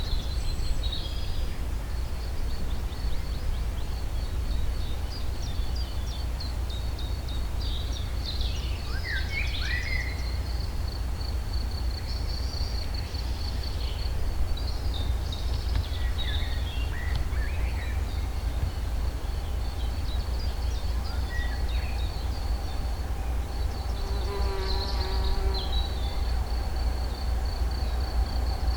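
Countryside ambience: an insect trills steadily and high, birds chirp and sing now and then, all over a steady low rumble. A flying insect buzzes past briefly near the end.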